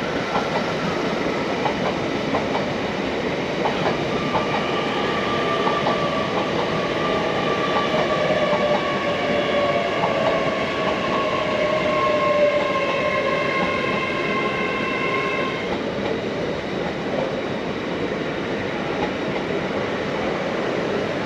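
Passenger train moving at a railway station, its wheels clicking over the rail joints. From about four seconds in, a whine joins the noise and slowly falls in pitch until it cuts off after about sixteen seconds.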